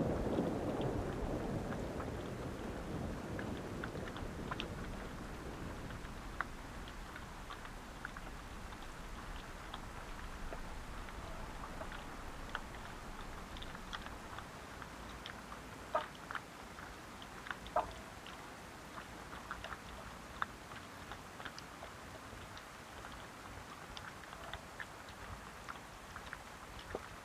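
Low rumble of thunder fading away over the first few seconds, then steady rain with many scattered drops ticking close by. A few louder drips come around the middle.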